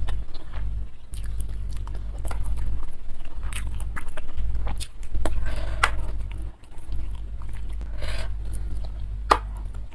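Close-miked chewing and wet mouth clicks and smacks of a person eating, with one sharper click near the end. A steady low hum runs underneath.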